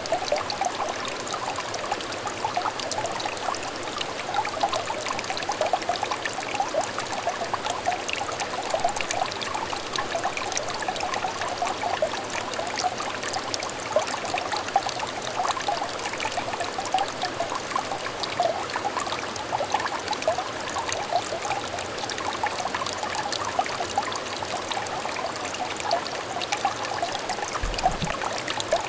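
Shallow, clear stream trickling and babbling steadily, a continuous patter of small splashes.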